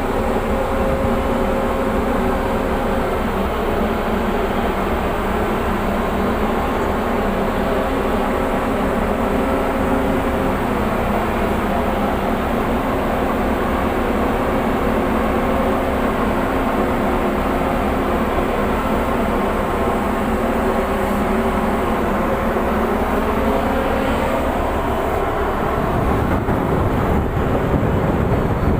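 Tugboat's diesel engines running with a steady drone and hum. The low rumble grows heavier near the end.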